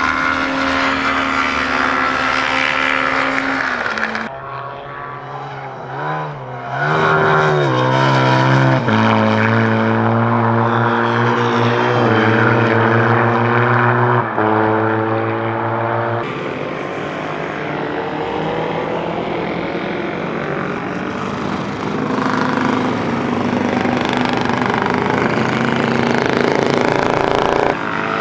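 Classic racing motorcycle engines running hard on the circuit, their pitch climbing and dropping with gear changes and as bikes pass. The sound changes abruptly about four and sixteen seconds in.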